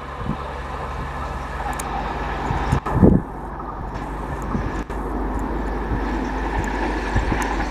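Passenger train's coaches running away down the track at speed, a steady rumble and rush of wheels on rail with the air stirred up in their wake. A loud low thump comes about three seconds in.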